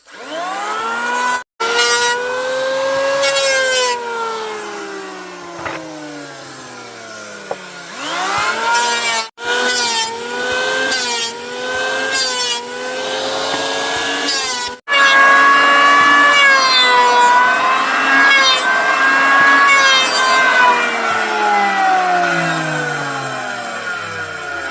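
Power saw cutting wood: the motor speeds up, wavers and dips in pitch under load, then winds down slowly, several times over. The sound drops out abruptly three times.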